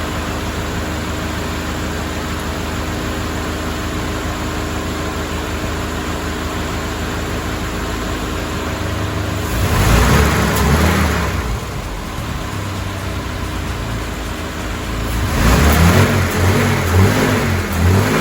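Mercedes-Benz W124 230E's 2.3-litre four-cylinder engine, with its repaired fuel distributor, idling steadily, then revved once about halfway through and blipped several times in quick succession near the end, settling back to idle in between.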